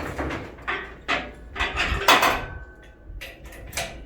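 A run of sharp metal clanks and rattles from hardware and tools being handled, the loudest about two seconds in, which leaves a short metallic ring.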